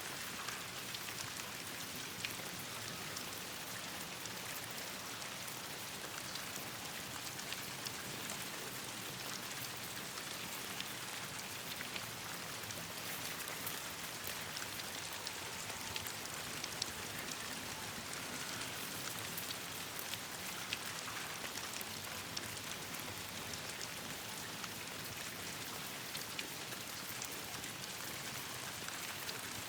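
Steady rain pattering on leaves and branches, with many small sharp ticks and crackles scattered through it.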